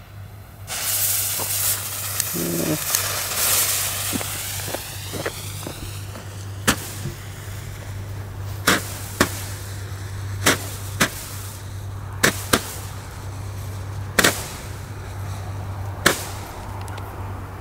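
Weco five-star Roman candles burning: a hissing rush for the first few seconds, then a run of sharp pops one to two seconds apart as the stars are shot out.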